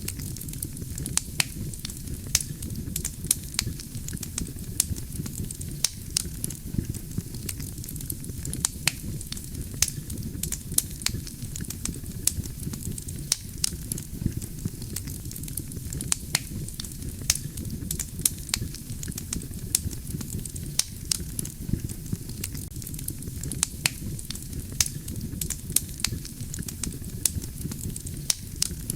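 Wood fire burning steadily, with a low rumble from the flames and frequent sharp, irregular crackles and pops from the burning logs.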